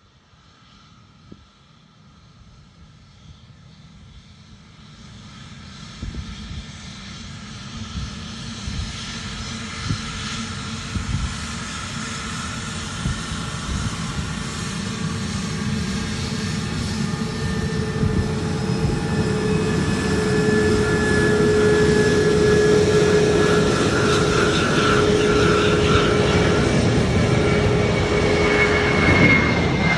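Airbus A321 airliner's twin turbofan engines on takeoff: a jet rumble with a steady whine, growing louder over the first twenty seconds and then holding loud. The whine drops in pitch right at the end.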